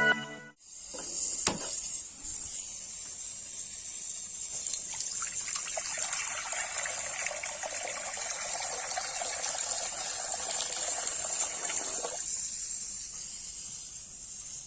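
Water running from a tap, with a fuller, heavier flow from about five to twelve seconds in.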